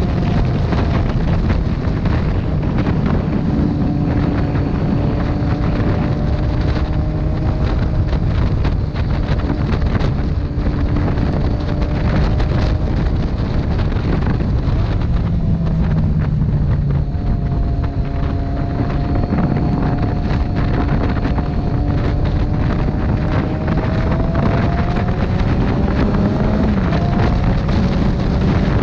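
Motorcycle on the move: heavy wind noise buffeting the microphone over the engine's drone, whose pitch drifts gently up and down with the throttle.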